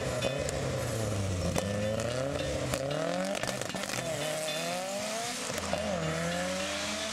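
Car engine accelerating hard under load, its pitch climbing and then dropping back about three times like gear changes, over a steady hiss.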